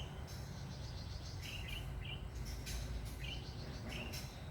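A bird chirping in short high notes, several in quick pairs, over a steady low rumble.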